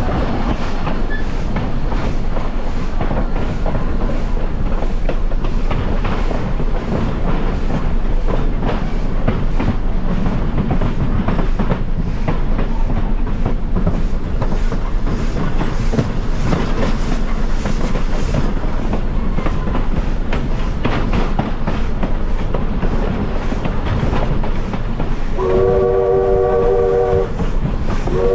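Passenger train cars rolling over the rails with a continuous rumble and clatter of wheel clicks. About 25 seconds in, the 1924 Baldwin 2-6-6-2T Mallet steam locomotive sounds one whistle blast of about two seconds, a chord of several notes.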